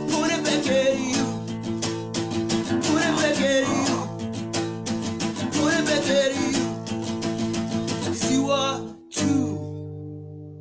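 Acoustic guitar strummed in a steady rhythm, with a wordless voice sliding up and down over it now and then. About nine seconds in, a last strummed chord rings out and fades.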